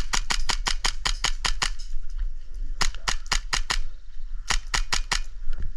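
Airsoft gun firing rapid strings of shots, about seven a second: a string running into the first second and a half, then two shorter strings of about five shots each around three and five seconds in, and a couple more near the end.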